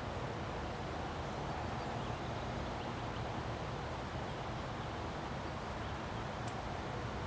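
Wind from a windstorm: a constant rushing noise that holds steady, with a few faint high chirps over it.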